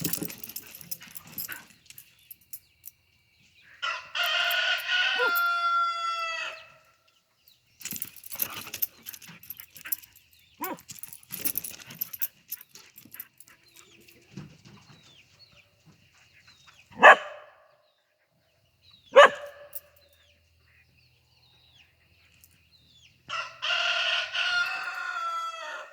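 A rooster crows twice, each crow a long call of two to three seconds that drops in pitch at the end, once about four seconds in and again near the end. Between the crows a husky gives two sharp single barks about two seconds apart, the loudest sounds here, with scattered scuffling before them.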